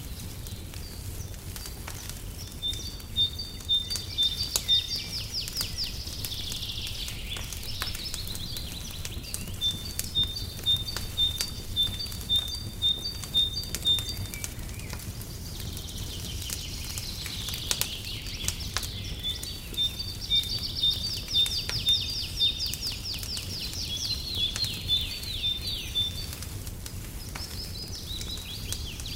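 Small songbird singing in repeated bouts of quick high chirps and trills, over a fireplace crackling with scattered sharp pops and a low steady rumble.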